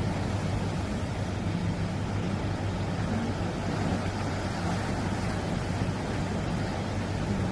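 A steady low engine hum over an even wash of sea and wind noise.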